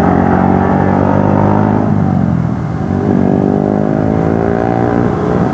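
Motorcycle engine and exhaust running hard at road speed. The revs fall away about two seconds in, then the engine pulls steadily again about a second later.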